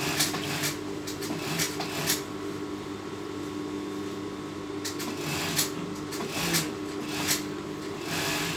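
Sewing machine running steadily as fabric is stitched, with a few short sharp clicks along the way.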